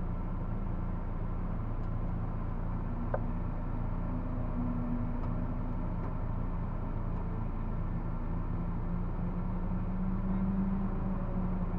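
Citroën Saxo 1.6 VTR's four-cylinder engine running at a steady speed under load. It gets a little louder about ten seconds in, and there is a single short click about three seconds in.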